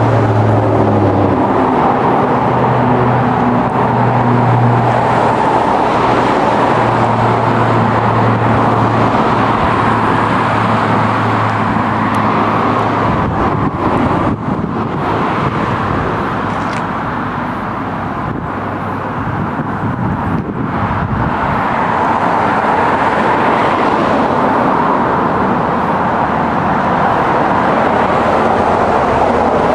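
Steady road-vehicle noise with a low engine hum for roughly the first twelve seconds.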